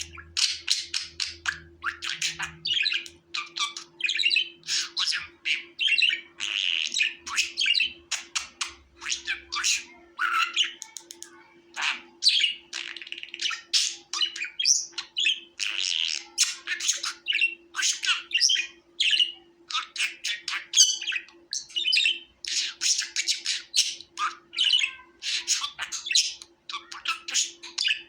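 Budgerigars chirping and warbling continuously: quick squawks, chirps and chattering calls one after another.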